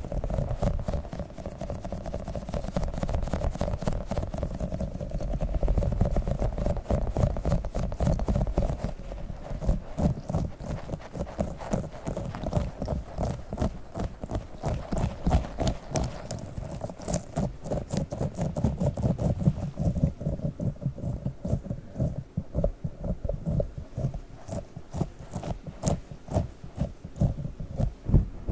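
Close-miked handling of a tiny toy octopus: rapid, irregular taps and clicks over a low rumble of handling noise, thinning out after about twenty seconds.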